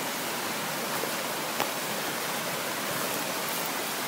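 Steady rush of water from a woodland stream and its waterfalls, with one sharp click about a second and a half in.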